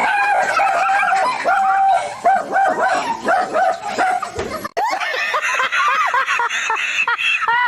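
A dog barking in a rapid string of high, yappy barks, pausing briefly a little past halfway and then starting again.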